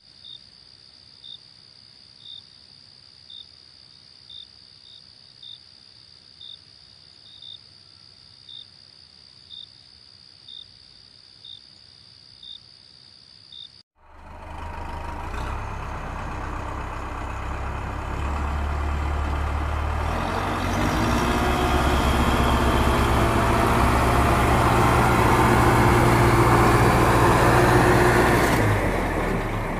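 Faint steady high tone with a short beep about once a second. About halfway through, a small motor starts up and runs with a low hum and a loud rattling whirr that grows louder, then cuts off near the end.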